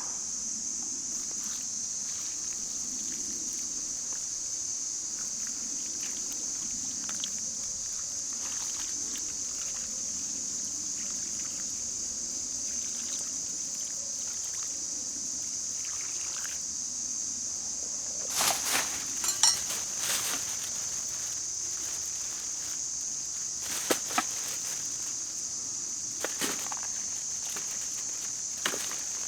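Steady, high-pitched insect chorus running without a break, with a few scattered short knocks and rustles, the loudest cluster about two-thirds of the way through.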